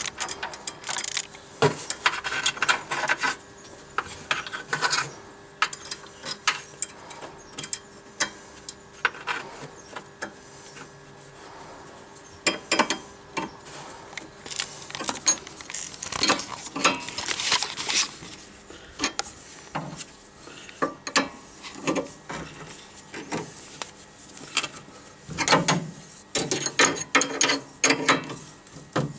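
Hand ratchet wrench clicking in bursts of rapid strokes, with pauses between, as it turns the nut on a sway bar link.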